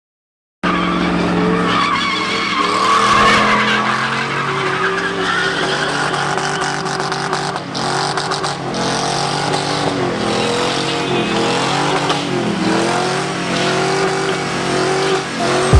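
A truck's engine revving up and down with tyres squealing as it drifts, loud and continuous after a brief silence at the start.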